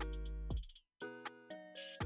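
A hip-hop beat playing back from a Maschine drum production: kick drums with a long low bass tone, crisp hi-hat and percussion hits, and sustained melodic notes. It stops dead for a moment just before the middle, then starts again.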